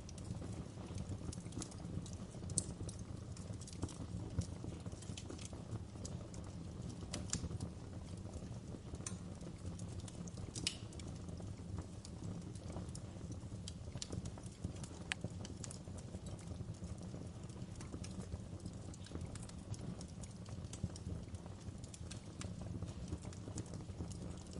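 Wood fire burning in a fireplace: a steady low rumble of flame with irregular sharp crackles and pops from the burning logs, a couple of them louder than the rest.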